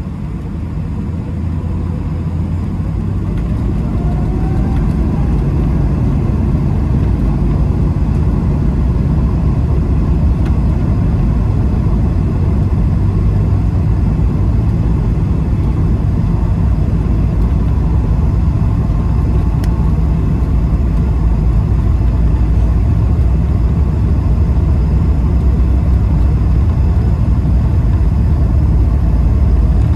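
Airbus A220-300 cabin noise: a deep, steady rumble from the aircraft's Pratt & Whitney PW1500G geared turbofans and airframe, heard from inside the cabin. It grows louder over the first several seconds, then holds steady.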